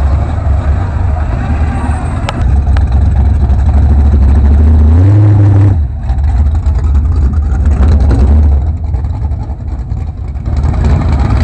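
Car engines running as cars pass slowly at parade pace, with a deep rumble. One engine revs up, rising in pitch about five seconds in, and then the sound drops off suddenly.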